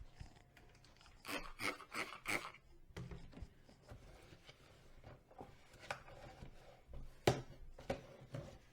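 Dishes and kitchenware being handled during washing up: a quick run of clinks and scrapes about a second in, then scattered knocks, the loudest near the end.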